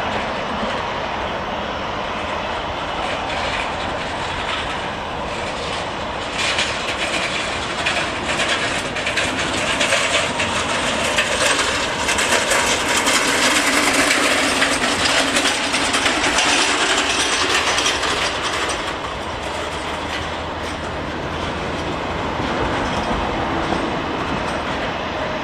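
A passing train, its wheels clattering over the rail joints with a rushing noise. It grows louder about a quarter of the way in, is loudest around the middle and fades after.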